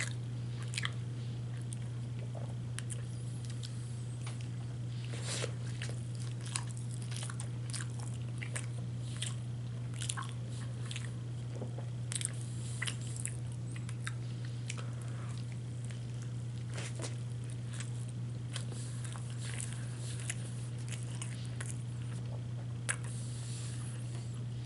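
A person chewing and biting into a KFC mac and cheese chicken wrap close to the microphone: irregular wet chewing and crunchy clicks. A steady low hum runs underneath.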